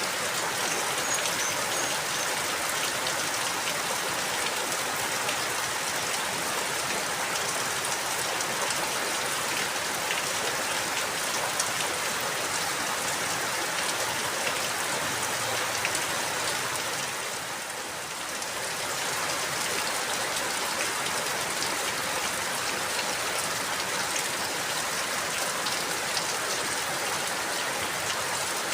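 Steady rainfall, a dense hiss of drops with fine individual drop ticks. The rain briefly eases about two thirds of the way through, then returns.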